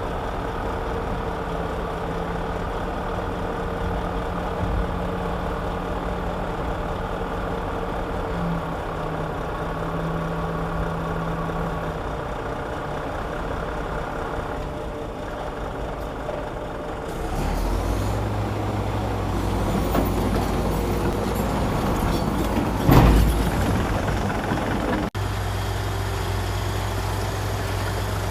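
Heavy diesel earthmoving machinery running steadily. About 17 seconds in, a deeper, louder engine hum takes over. A loud clank or thump comes about 23 seconds in.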